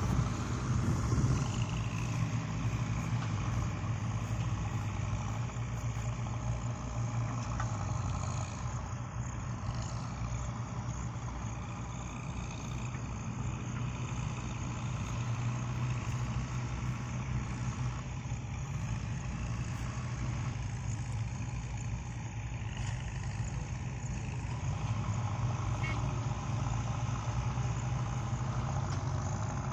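Bulldozer's diesel engine running steadily, a continuous low hum with no breaks.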